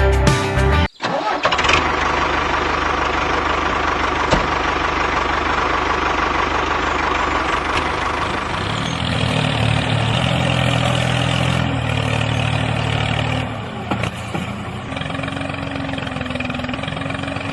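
A motor running steadily with a dense mechanical noise, starting just after a brief cut about a second in.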